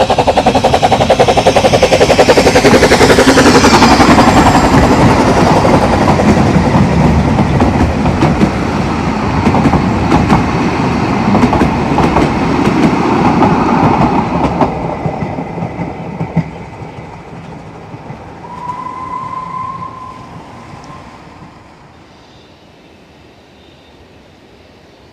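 A narrow-gauge steam train passes close by. Fast, sharp exhaust beats and clattering wheels are loudest a few seconds in, then the carriages rattle past and the sound fades away. A faint steady tone sounds for a couple of seconds near the end.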